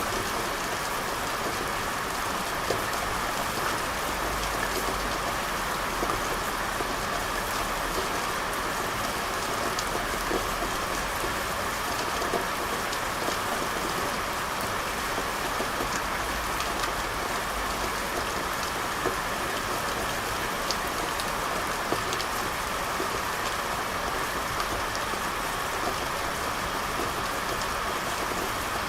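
Steady rain falling, a constant hiss with scattered drops ticking through it. A low rumble swells and fades a few times underneath.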